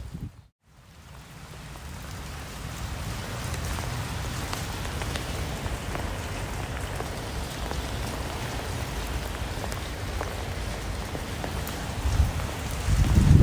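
Steady rain falling, an even hiss with scattered single drops ticking, fading in after a brief silence near the start.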